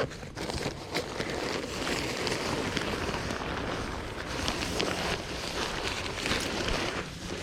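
A tent being set up: a steady rustling of fabric with many scattered light clicks and knocks.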